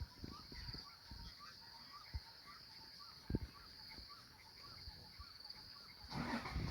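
Bush ambience: a steady high-pitched insect drone with a short rising chirp repeating about twice a second, and scattered low thumps. About six seconds in, a louder rustling noise starts.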